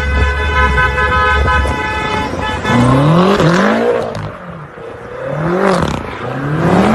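A car horn held in one steady blast for about two and a half seconds over low vehicle rumble. Then an engine revs up and down several times.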